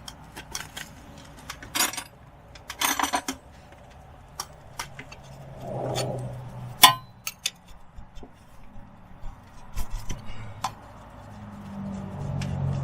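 Metal hand tools and parts clinking and clicking at the front wheel hub during work on the wheel speed sensor, with two short rasping bursts and a brief squeak. A passing car swells up near the end.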